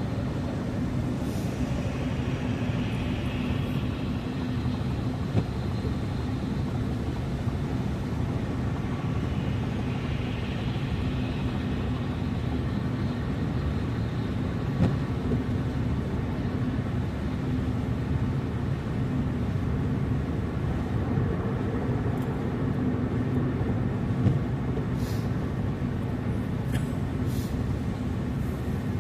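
Steady low rumble of a car driving, engine and tyre noise, with a few faint clicks near the end.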